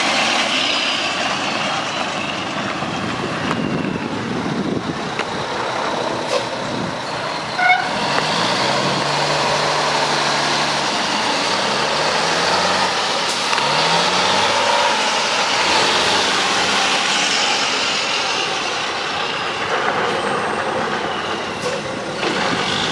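Mack E7-350 diesel engine of a 2000 Mack CH613 tractor truck running, its pitch climbing and dropping back several times. There is one brief sharp sound about eight seconds in.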